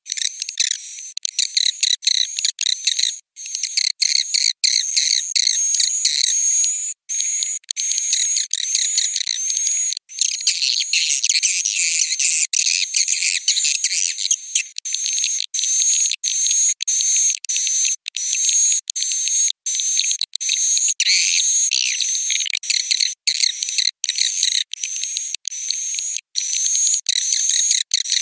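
Edible-nest swiftlets' roosting calls: a dense, high-pitched chittering twitter of many birds at once. It is broken by frequent brief gaps, as in an edited swiftlet-house lure track.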